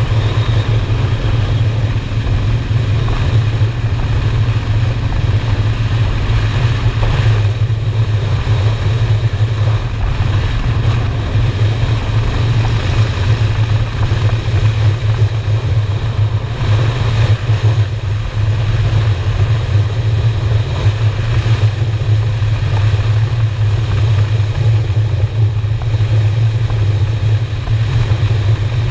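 Honda Shadow V-twin cruiser motorcycle running at a steady road speed, its exhaust note holding an even pitch with no revving, over a steady rush of wind and road noise.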